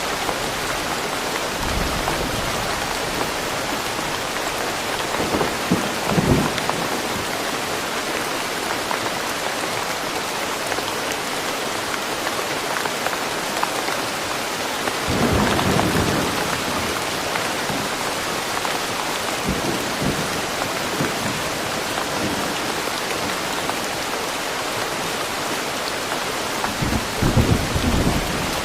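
Steady rain falling in woodland, an even hiss. A few brief low rumbles break through: about two seconds in, around six seconds, more strongly around fifteen seconds, and again near the end.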